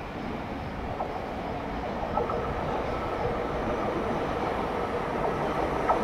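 Electric multiple-unit train approaching along the rails, its running noise growing steadily louder. A faint steady tone joins in about two seconds in.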